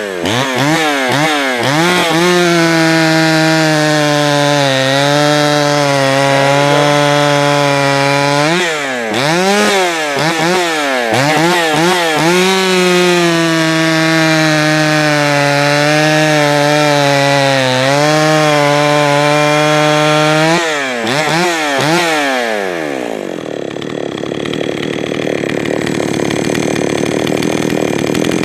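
Jonsered 525 chainsaw running: a few quick throttle blips, then two long pulls at high revs with the pitch sagging slightly, and more blips between them. Near the end the revs fall away and the engine note gives way to a rougher, noisier sound.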